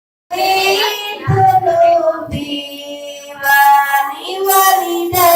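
A children's song: a child's high singing voice over musical backing, starting suddenly a moment in, with a few low beats.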